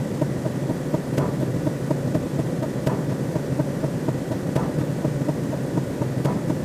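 Low electronic drone with a fast pulse of about four beats a second, and a faint sharp click roughly every second and a half.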